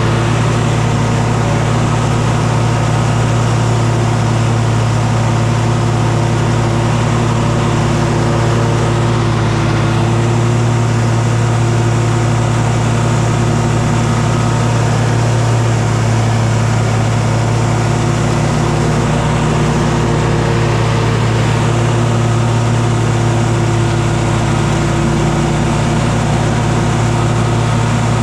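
An engine running steadily at a constant speed, a loud even drone with only slight shifts in pitch.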